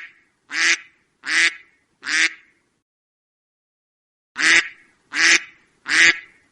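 Duck quacking: a run of four loud quacks, a pause of about two seconds, then three more, each call sharp and about 0.7 s apart.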